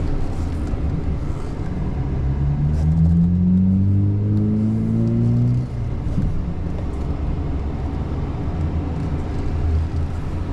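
Tow truck's engine accelerating, rising in pitch for about four seconds, then dropping back suddenly and running low and steady.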